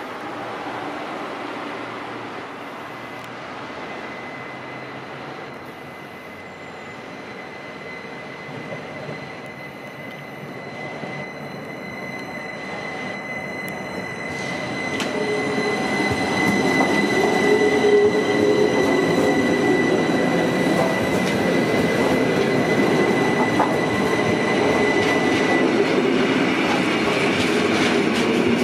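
Rhaetian Railway ABe 8/12 electric multiple unit running on street track and passing close by, with a steady high squeal held at one pitch. The running noise of the wheels and coaches grows louder about halfway through as the train reaches and passes.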